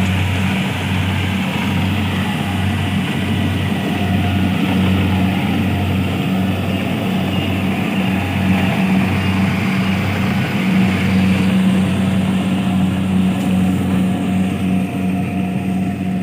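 Engine of a rice-harvesting machine running steadily at a constant speed, with an even low hum.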